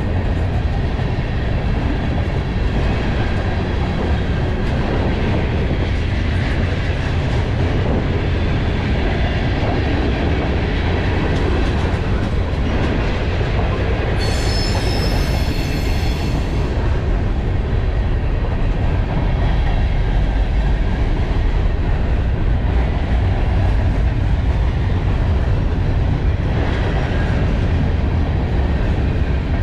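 Freight train cars rolling past with a steady rumble and clatter of wheels on rail. About halfway through, a high wheel squeal rings out for a couple of seconds.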